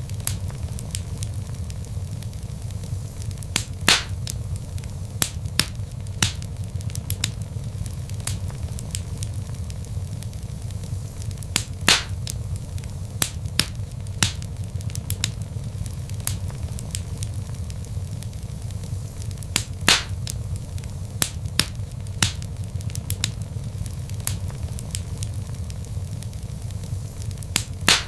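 Log fire crackling: a steady low rumble of flames with frequent sharp pops, the loudest coming about every eight seconds.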